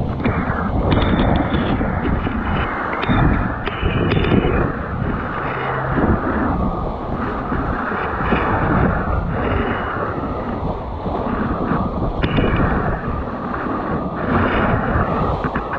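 Wind buffeting the microphone in uneven gusts: a loud, rumbling rush of noise that swells and eases every second or two.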